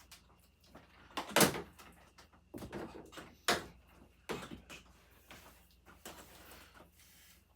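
A series of separate knocks and clunks, as of things being handled and set down, the loudest about one and a half seconds in; no motor is running.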